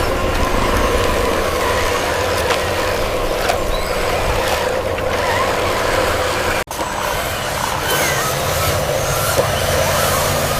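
A steady mechanical drone, like small motors or a vehicle running, with a steady hum in it. It cuts out for an instant about two-thirds of the way through, then carries on with faint squeaks over it.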